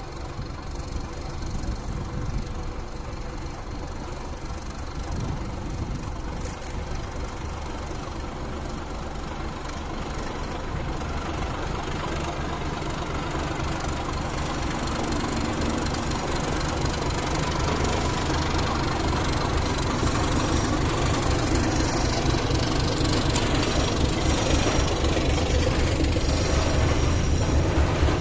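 Diesel shunting locomotive's engine running steadily, growing louder over the second half as it comes closer or works harder.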